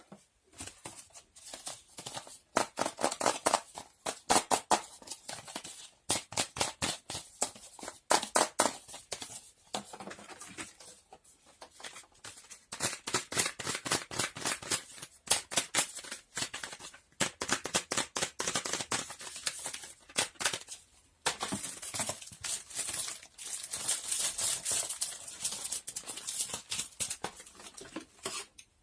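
Close-miked handling sounds: irregular rustling, crinkling and small sharp clicks of things being handled and moved about, coming in clusters with short pauses between them.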